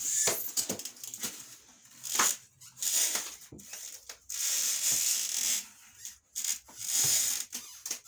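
Cardboard packaging scraping, rustling and crinkling in a series of bursts as a boxed refrigerator is rocked and lifted out of its bottom box, with a longer scrape about halfway through.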